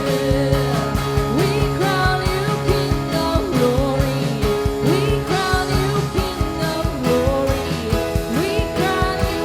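Live worship band playing with singing, over a steady drum beat and sustained bass.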